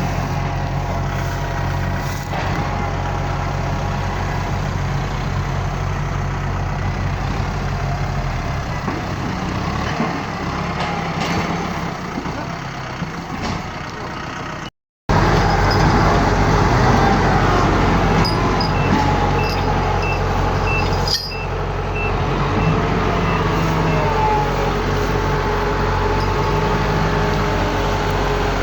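Heavy diesel engines of a tractor and combine harvesters running steadily. The sound drops out briefly about halfway, and a few seconds later comes a quick run of short high beeps.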